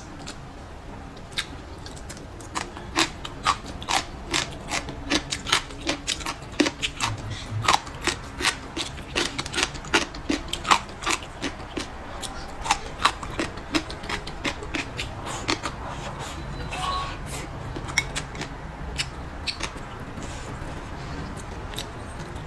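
A person chewing food with chopsticks in hand: a rapid run of sharp, crisp clicks and crunches that thins out after about 16 seconds.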